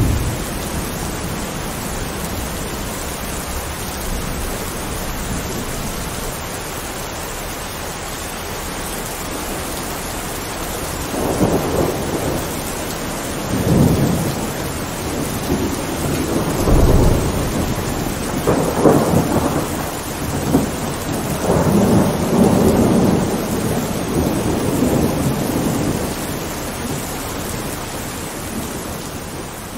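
Thunderstorm: steady rain with several rolls of thunder rumbling one after another through the middle, then fading lower near the end.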